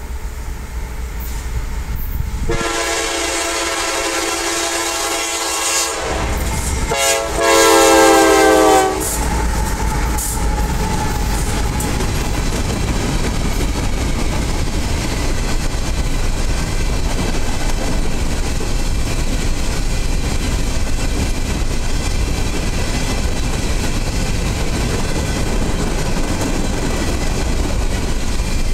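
Horn of a CSX GE AC4400CW diesel locomotive sounding two long blasts as it approaches, the second one louder. This is followed by the steady rumble and wheel clatter of a long train of covered hopper cars rolling past.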